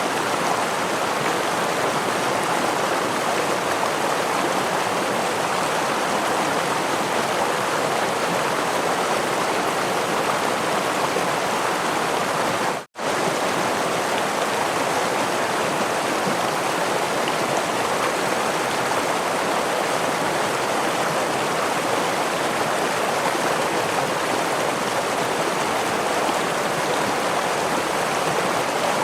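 Stream water running and splashing over a waterfall, a steady, even rush. The sound cuts out for an instant near the middle, then carries on unchanged.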